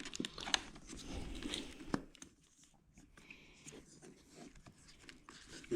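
Faint clicks and rustling of hands handling a motorcycle's wiring harness and its plastic electrical connectors, with a few sharp clicks spread through.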